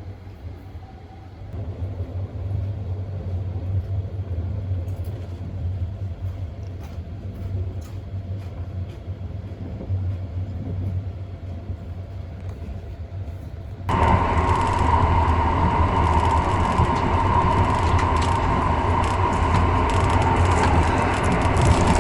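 Electric sleeper train running: a steady low rumble, then after an abrupt cut about fourteen seconds in, a much louder running noise with a hiss.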